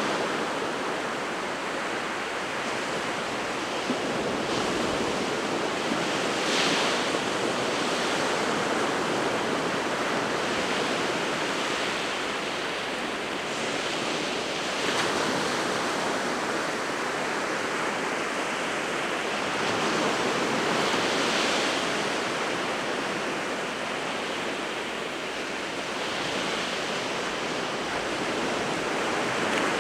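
Winter Sea of Japan surf breaking and washing ashore in a steady rush, swelling every few seconds as waves break, with hissing surges as the water spreads out.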